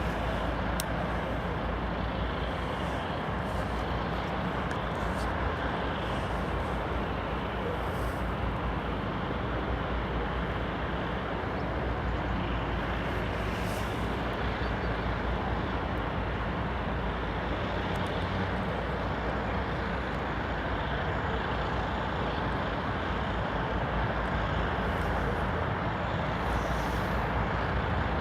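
2M62U diesel locomotive's two-stroke diesel engines running with a steady low drone as it hauls a freight train, growing slightly louder toward the end.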